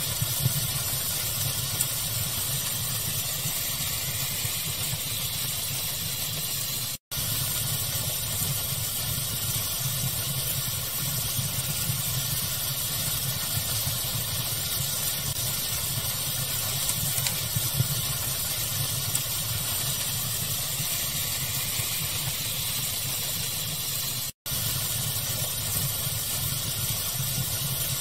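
Fire-crackling ambience mixed with steady pink noise: an even hiss over a low rumble, with occasional sharp crackle pops. The sound cuts out for an instant twice.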